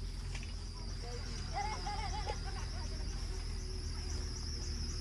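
Steady high-pitched chorus of insects, crickets trilling in a continuous, finely pulsing drone. A short wavering call or voice rises over it about two seconds in.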